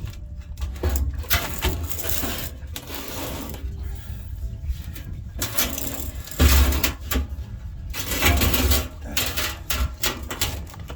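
Metal clinking, clattering and scraping in uneven bursts as tools and parts are handled, loudest about six and a half seconds in.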